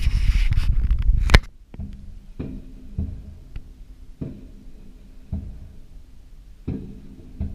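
Fireworks: a loud rumble with a crackling hiss that cuts off abruptly about a second and a half in, followed by about seven dull firework booms at irregular intervals, each trailing off briefly.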